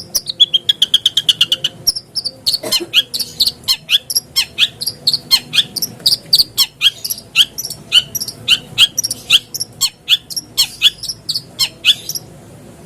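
Long-tailed shrike (cendet) song played as a lure call. It opens with a fast buzzy trill of short high notes for about two seconds, then runs into a long series of sharp down-slurred chips, several a second, that thin out near the end.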